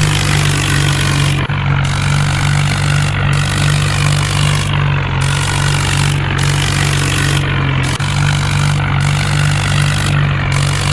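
Tractor diesel engine running loud and steady under load, its low drone holding with only small shifts in pitch.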